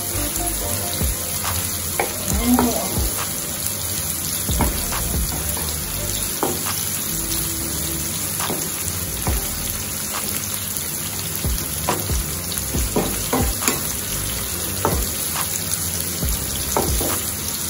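Chopped vegetables sizzling as they fry in oil in a pot, with a spoon clicking and scraping against the pot now and then as they are stirred.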